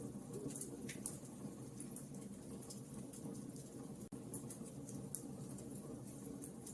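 Wood fire crackling: irregular small pops and snaps over a steady low rumble of the flames.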